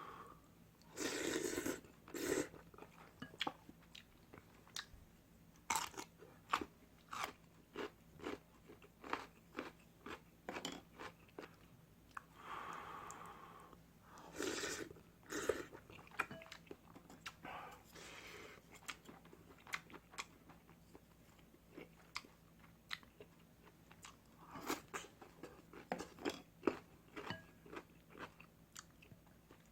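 Close-miked eating of ramyun: crisp crunching bites and wet chewing, about two crunches a second, with a few longer, louder bursts in between.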